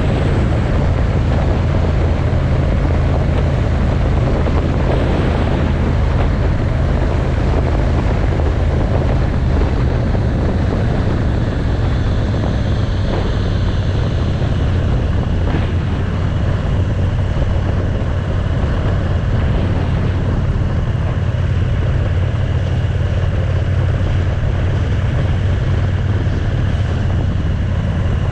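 Motorcycle riding at a steady road speed: a constant engine drone with wind noise on the microphone.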